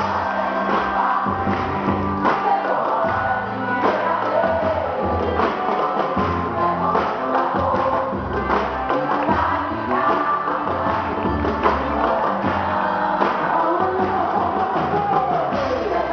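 Live band music with singing over a steady, rhythmic beat.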